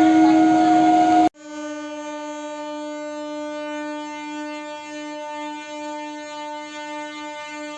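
Train horn sounding a loud steady note for about a second, cut off abruptly, followed by a second long, steady horn note held for about six seconds.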